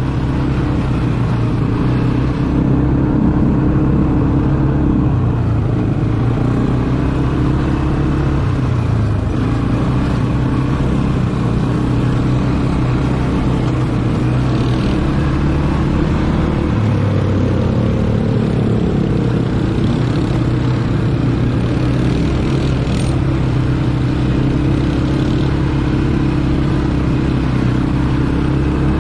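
ATV engine running steadily while riding, its note dipping and rising a few times with the throttle.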